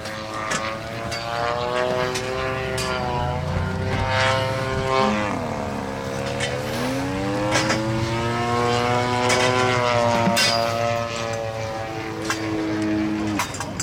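Radio-controlled model airplane's propeller engine running steadily. Its pitch dips about five seconds in and then climbs back up, with a few sharp clicks over it.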